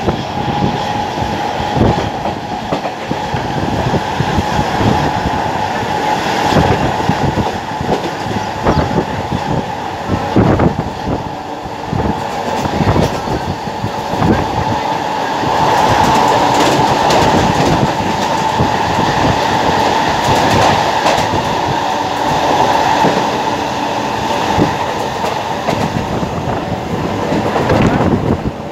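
Passenger train running at speed, heard from on board: a steady rumble and rush with the wheels clattering over the rail joints. It grows louder for a stretch in the middle.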